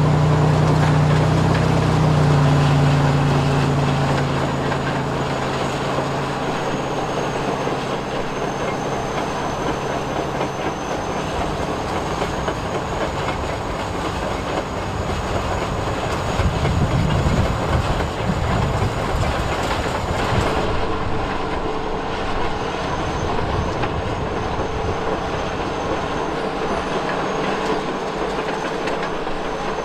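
Small electric motors and plastic gearing of RC construction models running, with a steady clattering rattle and a thin high motor whine; a low steady hum sounds for the first few seconds.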